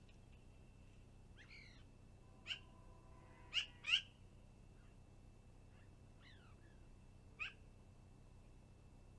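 Birds calling: four short, sharp calls, the loudest two close together near the middle, and a couple of quick falling notes.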